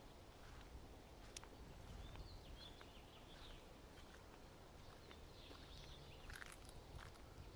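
Faint songbirds chirping, with short high chirps scattered through, over a low steady rumble. There is a sharp click about a second in and a brief louder rustle near the end.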